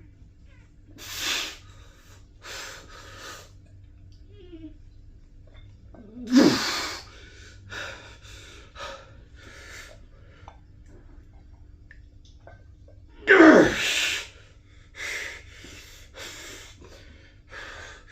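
A weightlifter's short, forceful exhalations through a set, about a dozen of them, with two loud strained grunts that drop in pitch, about six and thirteen seconds in.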